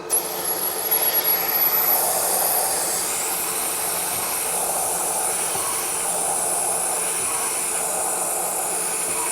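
Mist coolant nozzle on a manual milling machine switched on with a sudden loud hiss of compressed air, a thin high whistle over it for the first two seconds. It then hisses steadily over the running spindle while holes are chamfered.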